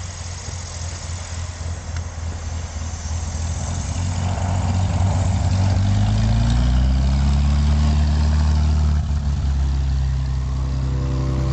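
Light propeller aircraft's engine running with the rush of the propeller and airflow; about four seconds in the engine pitch rises and it grows louder, then holds steady.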